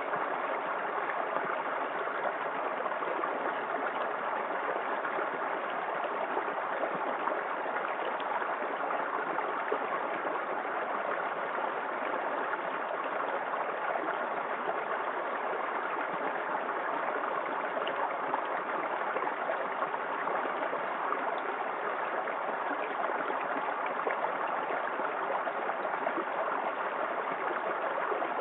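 Small waterfall in a forest creek: water spilling and splashing in a steady, even rush.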